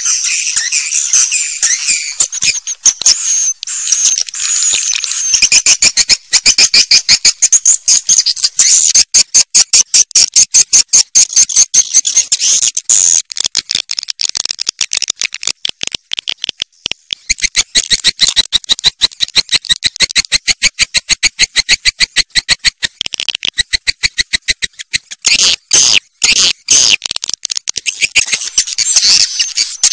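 Swiftlet lure call recording: a dense chorus of high, twittering swiftlet chirps. From about five seconds in it is overlaid with a fast, even train of clicking pulses.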